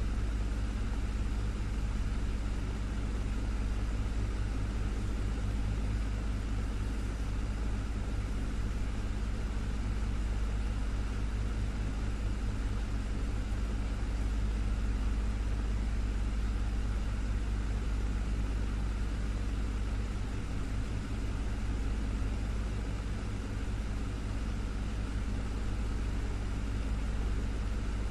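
Desktop fan running steadily: a constant rush of air over a low motor hum.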